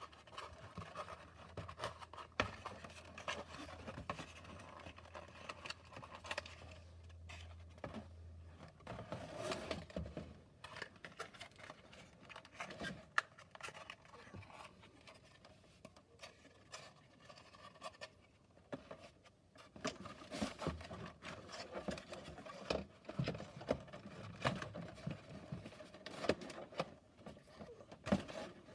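Cardboard playset pieces being handled, slid and fitted together: irregular scraping, rustling and sharp clicks and taps. A low steady hum runs under the first eight seconds or so.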